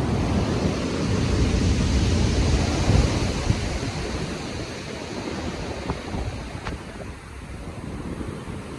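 Stormy sea: heavy waves surging and washing, with wind. A surge builds right at the start, peaks about three seconds in, then slowly eases off.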